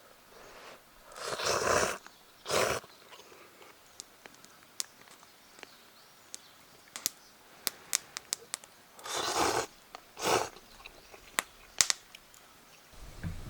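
Small wood fire crackling in a compact folding fire pit, with scattered sharp pops and snaps. Four short rushing bursts of noise come through: two around the first two seconds and two after about nine seconds.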